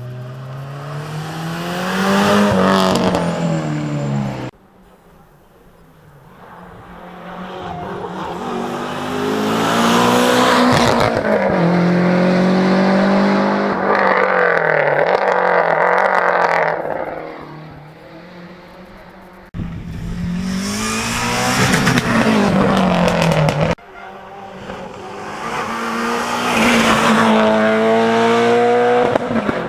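Rally cars driving hard past the microphone one after another, their engines revving up and dropping through the gears, each pass rising and then falling in pitch. The sound cuts abruptly between passes three times.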